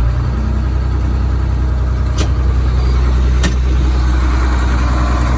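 School bus diesel engine idling steadily after a cold start, with two sharp clicks about a second apart near the middle.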